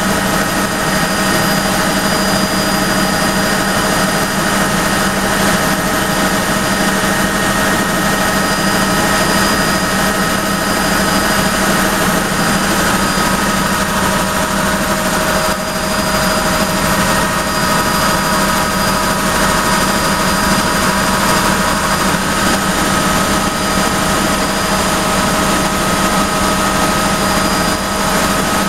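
Helicopter turbine and rotors running, a loud, steady drone with an unchanging whine over it.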